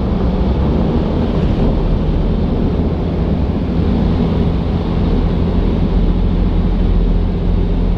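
Steady low rumble of a vehicle driving, with a constant hum from the engine under road and wind noise.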